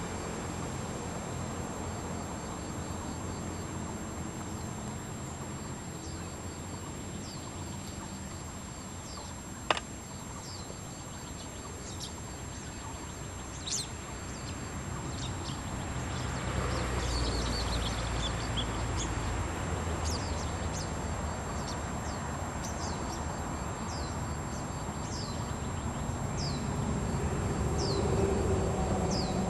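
A small bird calling outdoors: short, high chirps that fall in pitch, repeated roughly once a second over a steady background hum. A single sharp click sounds about ten seconds in, and a low rumble swells about halfway through.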